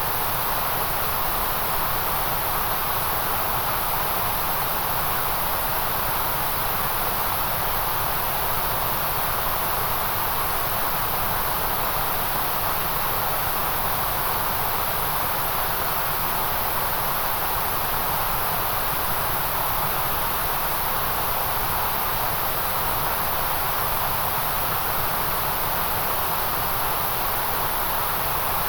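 Steady white-noise hiss, even and unchanging, with no rhythm or tones, strongest in the middle and at the very top of the range.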